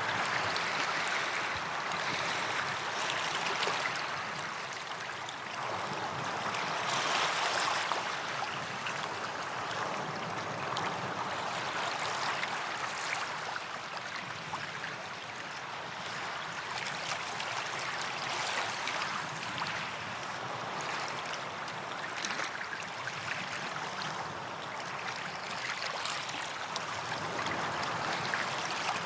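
Small sea waves washing onto a beach: a steady rush of surf that swells and eases every few seconds.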